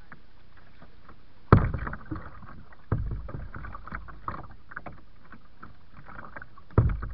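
Kayak paddle strokes splashing in the river. There are sharp splashes about a second and a half in, about three seconds in, and again near the end, with smaller splashes and drips in between.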